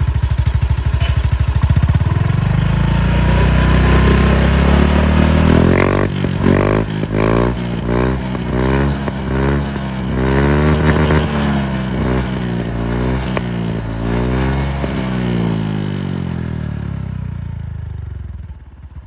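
Honda Scoopy scooter's single-cylinder engine running through an aftermarket exhaust with a full baffle insert. It idles, then gets a run of quick throttle blips, about one a second, and settles back to idle near the end. The full baffle gives the exhaust its mellow, everyday note.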